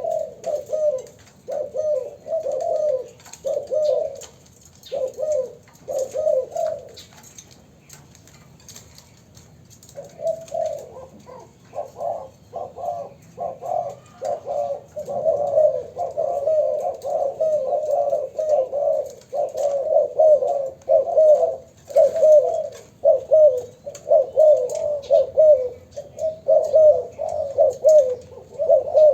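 Young spotted doves cooing in repeated short phrases. The calling pauses for a couple of seconds around eight seconds in, then resumes more densely, with phrases following one another almost without a break.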